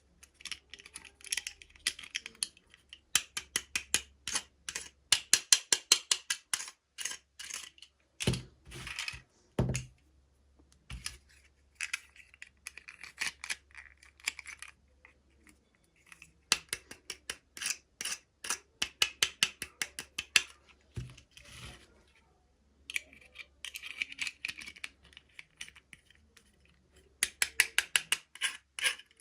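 Runs of quick, sharp plastic clicks and taps from small toy pieces and packaging being handled, broken by short pauses, with a few duller knocks about eight to ten seconds in.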